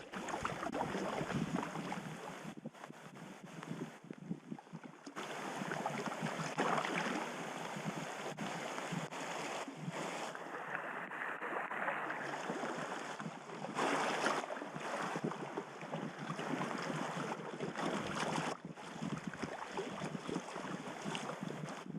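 River water rushing and splashing around a packraft as it runs a fast, dangerous stretch of the river. The noise rises and falls unevenly and drops away briefly a few times.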